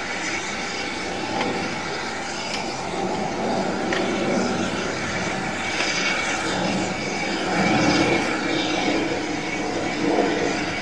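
Steam-hauled train on the move: a steady rumble and hiss from the locomotive and coaches, swelling a little about eight seconds in and again near the end.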